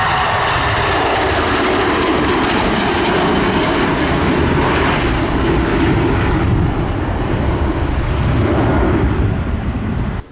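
Airbus A320-200 jet engines at takeoff power, loud and steady; a high whine heard in the first second fades into a deep roar. It cuts off abruptly near the end.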